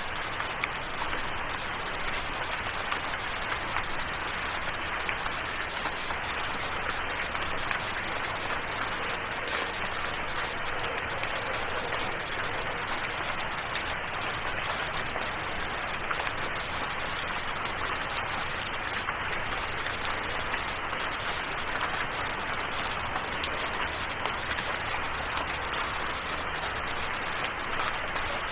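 Steady rain falling: an even hiss of rain with scattered single drop ticks.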